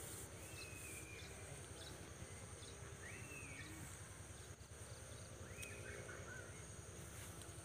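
Quiet rural ambience with faint bird calls: about four short whistled notes a couple of seconds apart, over a steady high hiss.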